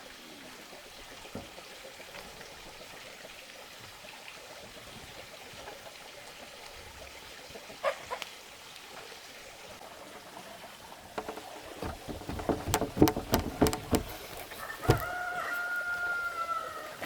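A rooster crows once near the end, a long held call that dips as it finishes. Just before it, a quick run of sharp knocks starts about eleven seconds in; before that there is only a faint steady background with one short call.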